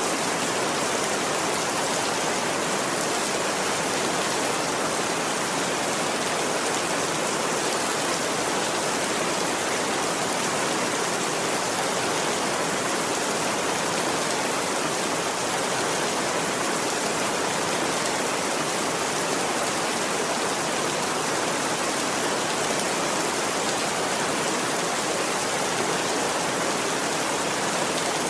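Steady rain falling, an even, unbroken hiss at a constant level.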